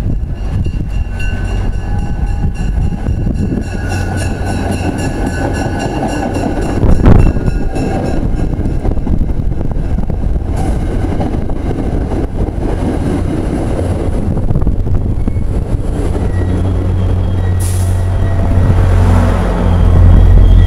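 Diesel-hauled MBTA commuter rail train passing, a steady deep rumble with a thin whine over it. There is a short loud thump about seven seconds in, and the rumble swells near the end.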